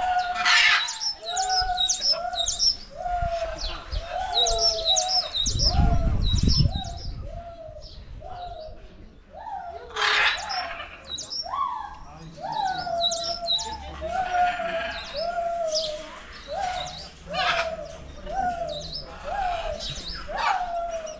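Birds in aviaries calling: one call repeated over and over, about once a second, with quick high chirping from other birds over it. A brief low rumble comes about six seconds in.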